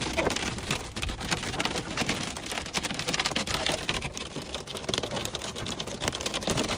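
Heavy storm downpour pelting a surface: a dense, steady crackle of countless drops striking.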